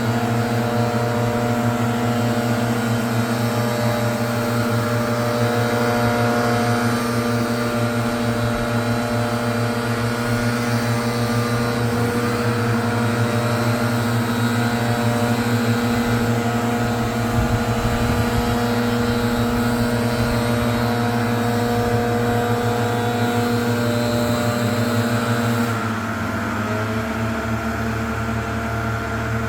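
Gas-powered leaf blower engine running steadily at high throttle, easing down to a slightly lower, quieter speed near the end.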